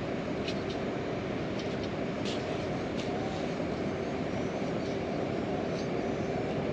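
Heavy rain falling steadily, an even dense hiss, with a few sharp ticks in the first three seconds.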